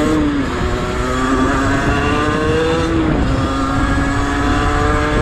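Motorcycle engine accelerating through the gears: its pitch climbs steadily, drops at an upshift about a third of a second in and again about three seconds in, then climbs again.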